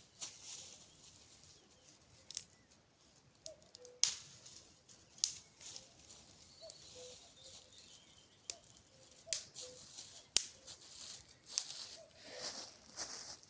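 Scattered sharp snaps and cracks over light rustling: dry twigs and branches being handled and broken on the forest floor.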